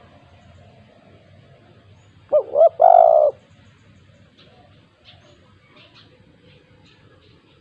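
Spotted dove (tekukur) cooing once about two seconds in: two short, quick notes followed by a longer held note. Faint high chirps of small birds follow.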